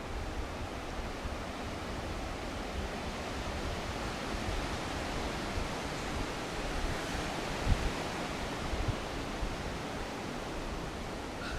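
Steady rushing outdoor noise with uneven low rumbles, and one louder low bump about three-quarters of the way through.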